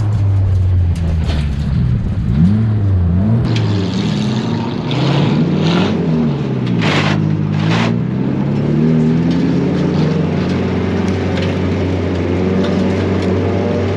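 Car engine revving up and down with throttle changes, with two short hissing bursts of tyre noise about seven seconds in, then holding a steadier drone.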